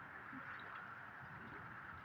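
Faint, steady sound of gently moving water, with soft low lapping splashes now and then.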